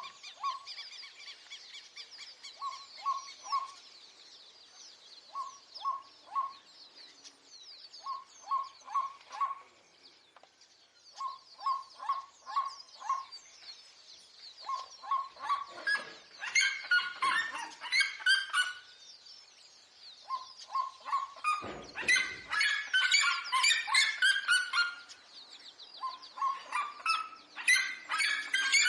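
Birds calling outdoors. A short note is repeated in quick groups of three or four, over faint high chirping. About halfway through, loud harsh chattering calls join in, and they grow louder and more continuous near the end.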